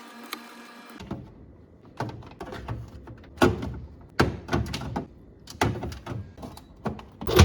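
Household handling knocks and thuds, a few every couple of seconds, like fridge drawers, shelves and containers being moved and set in place; the loudest knock comes near the end. For the first second, quick light taps over a steady hum.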